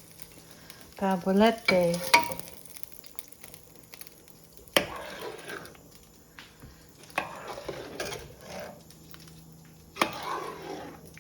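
A kitchen utensil knocking and scraping in a pot as fried mini meatballs are stirred into tomato sauce: several sharp knocks, each followed by a short scrape, over a faint sizzle.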